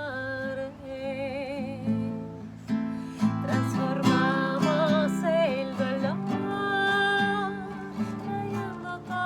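A woman singing a medicine song in long held notes with a wavering vibrato, over steady instrumental accompaniment.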